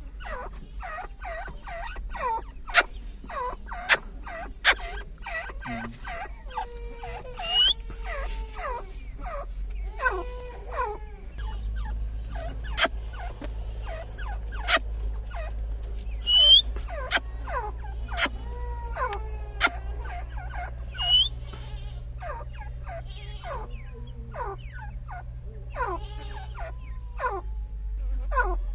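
Teetar (francolin partridge) calling over and over: many short, repeated calls broken by sharp clicks and a few high rising whistles. A low steady hum runs underneath through most of the middle.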